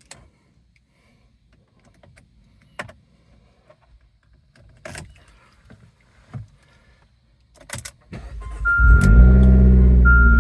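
A few scattered clicks, then the 2017 Abarth's 1.4-litre turbocharged four-cylinder is cranked about eight seconds in. It catches at once and flares into a fast, steady cold-start idle. A steady electronic warning tone from the car beeps in long pulses over the engine.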